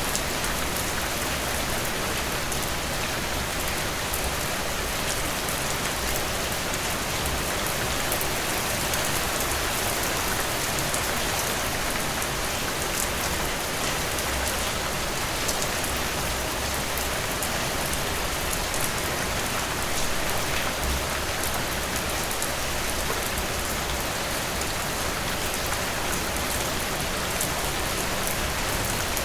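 Heavy rain pouring steadily, a dense, even hiss with fine drop patter and no letup.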